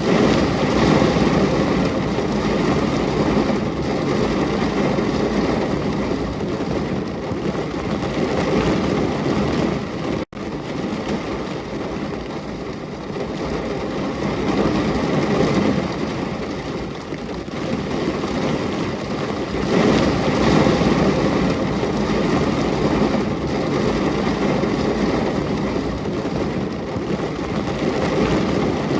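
Steady heavy rain falling, a dense even hiss that swells and eases slowly; it cuts out for an instant about ten seconds in.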